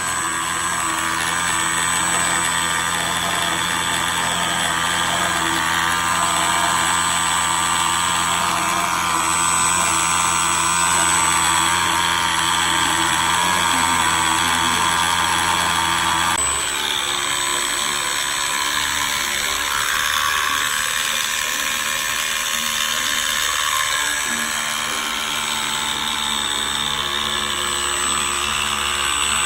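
3D-printed RC outboard motor running: a 540-size electric motor whining steadily through printed plastic miter gears. Its sound shifts abruptly a little over halfway through, then runs steadily again.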